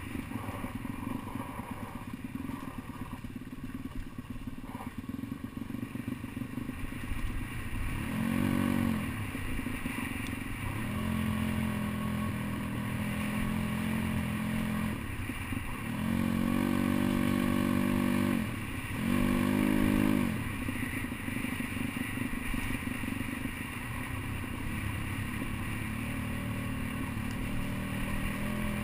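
Pit bike's small single-cylinder engine running on a dirt trail, with rattling and clatter from the bike over rough ground. About eight seconds in it is revved up in a few bursts, the strongest near the middle, then drops back to a low, rough running note.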